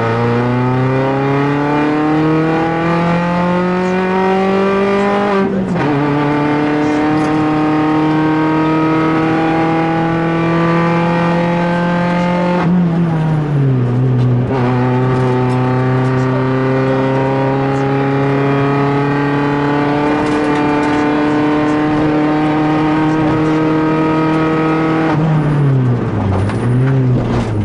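Peugeot 206 rally car's four-cylinder engine heard from inside the cabin, pulling hard with its pitch rising steadily. It drops sharply at a gear change about five seconds in and pulls again. It falls away around thirteen seconds, then climbs for about eleven seconds before dropping and briefly rising again near the end.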